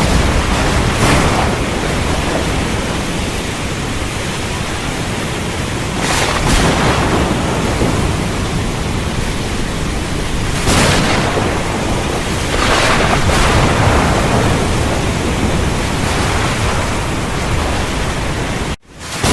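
Heavy rain with thunder: a steady loud downpour with several louder surges or cracks spread through it. The sound cuts out for a split second near the end.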